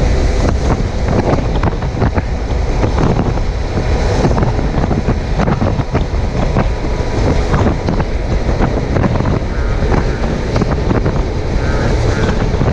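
Heavy wind buffeting on a chest-mounted camera microphone over the steady running of a Suzuki GSX750F's inline-four engine at highway cruising speed, with road and tyre noise underneath.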